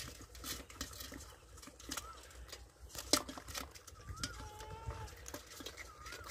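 Birds chirping in the background, a few short rising-and-falling calls, over scattered wet clicks and taps of muddy fish being handled in a plastic crate, with one sharper knock about three seconds in.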